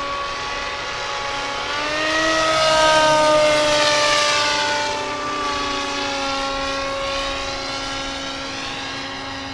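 Model plane's motor and propeller whining in flight. The pitch rises about two seconds in and it is loudest as it passes close, then the pitch sinks slowly as it moves off.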